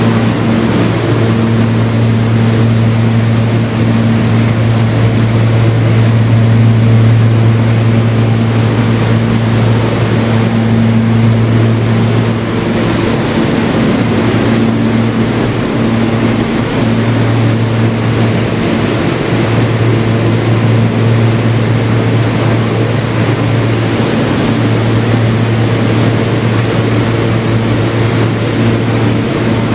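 Steady running noise inside a Kawasaki R160B subway car with Siemens propulsion travelling between stations: a constant rumble of wheels on the rails with a strong low hum and a fainter higher tone that comes and goes.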